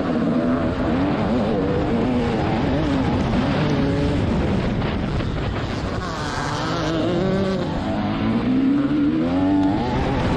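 TM 300 two-stroke motocross bike engine ridden hard, its revs rising and falling repeatedly, with a long climb in revs near the end.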